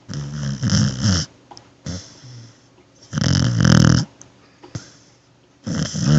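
A sleeping dog snoring: three loud snores about two and a half seconds apart, the middle one the loudest, with a fainter breath between the first two.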